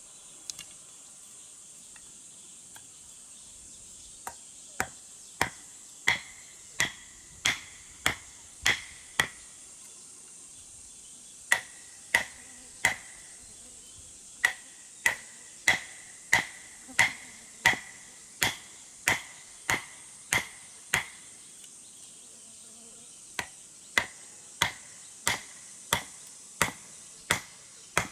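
Repeated sharp strikes of a hand tool, about one and a half a second, many with a brief ringing note. They come in runs broken by two short pauses, over a faint steady high buzz of insects.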